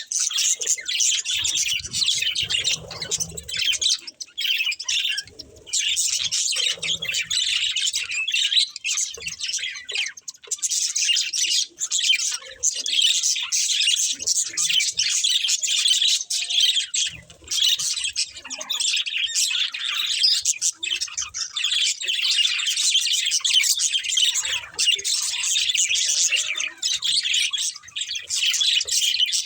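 Budgerigars chirping and chattering without pause, a dense high-pitched warble.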